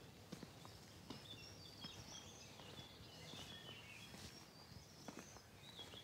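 Faint outdoor birdsong: scattered short chirps and twitters, with a few soft ticks over a low hiss.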